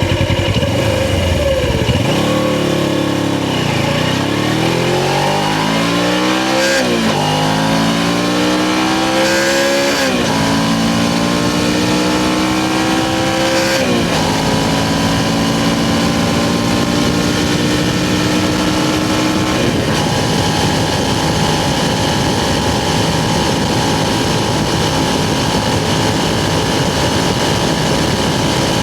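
Suzuki GS500's parallel-twin engine accelerating through the gears. The pitch climbs, drops at three upshifts about 7, 10 and 14 seconds in, then holds steady at cruising speed.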